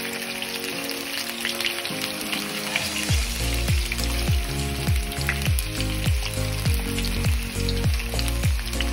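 Potato slices sizzling as they fry in hot oil in a pan, stirred and turned with a wooden spatula. Background music plays under it, and a bass beat comes in about three seconds in.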